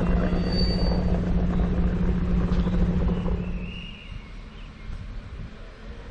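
Diesel engine of a Polregio SA138 railcar running with a loud, steady low drone, which drops sharply in level about three and a half seconds in, leaving a quieter rumble.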